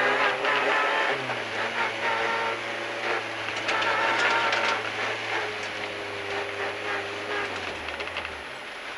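Renault Clio N3 rally car's four-cylinder engine heard from inside the cabin, running steadily and then falling in pitch about eight seconds in as the revs drop, with clicks and rattles over it.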